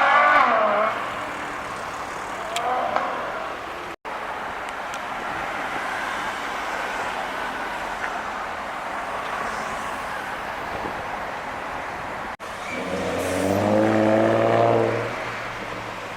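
Sports car exhausts accelerating hard. A loud rev fades within the first second, with a short blip about three seconds in. Steady street traffic noise runs through the middle. Near the end another car accelerates loudly with a deep exhaust note, its pitch climbing before it fades.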